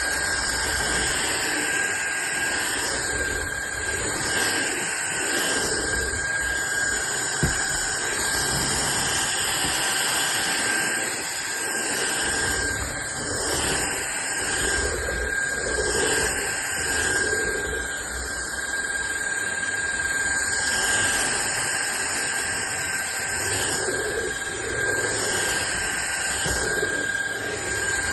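SunSare 600 W cordless stick vacuum cleaner running, its motor giving a steady high whine over a strong rush of air, the lower tone swelling and fading as it moves. A single short click about seven seconds in.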